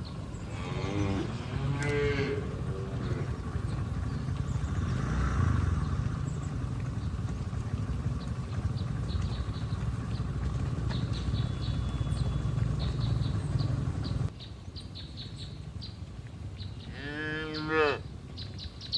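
Cattle mooing: a couple of lowing calls near the start and one loud moo near the end, over a steady low rumble that stops suddenly about three-quarters of the way through.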